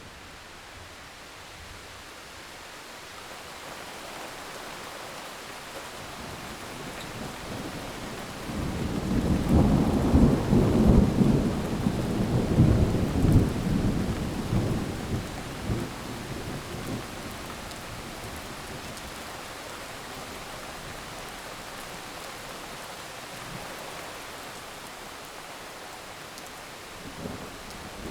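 Heavy rain falling steadily, with a long roll of thunder that builds about eight seconds in, rumbles loudest for several seconds and slowly dies away.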